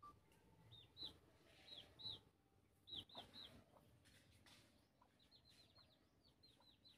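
Faint, high bird chirps, each a short note dropping in pitch. They come in twos and threes over the first few seconds, then as a quicker run of fainter chirps near the end.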